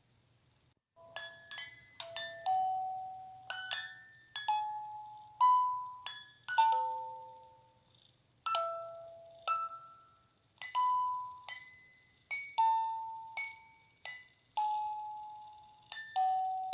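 A slow lullaby melody played one note at a time on a bell-like chiming instrument, each note ringing and fading before the next. It starts about a second in, after a brief near-silence.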